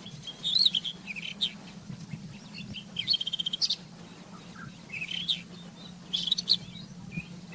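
Rufous-tailed scrub robin singing: four short phrases of varied whistled and scratchy notes, one with a quick trill, separated by brief pauses. A faint steady low hum runs underneath.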